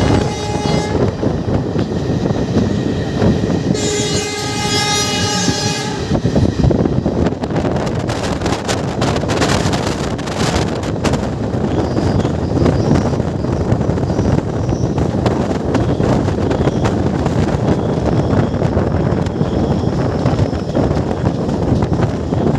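Passenger train running at speed, heard from an open coach door: a steady rumble with wheel-on-rail clatter. A locomotive horn sounds twice, one blast fading out about a second in and a longer one from about four to six seconds in, and from about seven to eleven seconds a fast clatter as a train passes on the next track.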